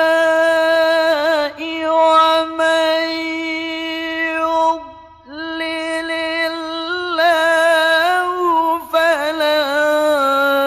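A male qari reciting the Qur'an in the melodic murattal/mujawwad style. He holds one long high note with a brief turn, breaks for a breath about five seconds in, then sings a second long phrase full of rapid ornamental turns.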